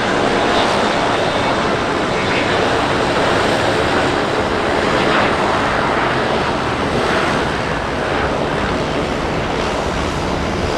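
Jet engines of a Gulfstream business jet, a loud steady rush of noise that holds without a break.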